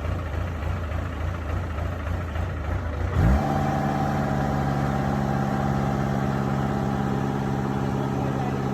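An engine idling low, then about three seconds in it revs up quickly and holds a steady, higher speed.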